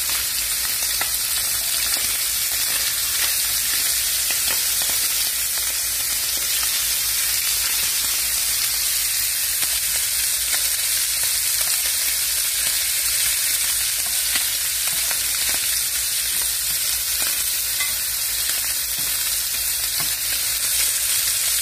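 Fish fillets sizzling in butter in a skillet, with okra frying in a wok beside them: a steady frying hiss. A metal slotted spatula now and then clicks and scrapes lightly against the pan as fillets are turned and lifted out.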